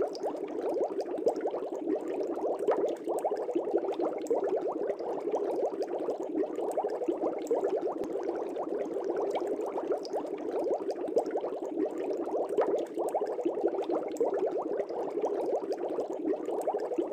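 Aquarium air bubbles rising and breaking at the water surface in a steady, dense bubbling, with many small irregular pops.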